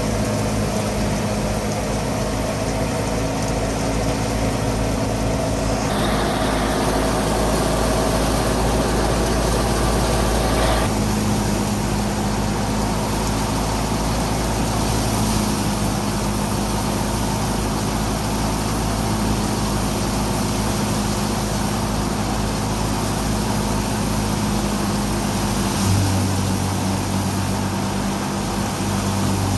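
Fiat 480 tractor's three-cylinder diesel running steadily under load while it drives a wheat thresher, engine drone mixed with the thresher's machinery hum. The pitch of the drone shifts a few times, around 6, 11 and 26 seconds in.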